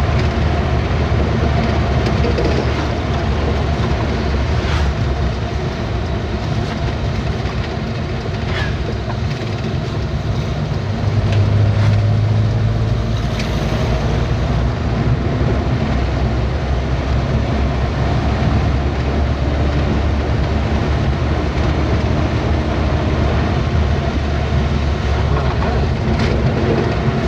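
A truck on the move: a steady low engine drone with road noise, briefly louder about eleven seconds in, and a few short knocks and rattles along the way.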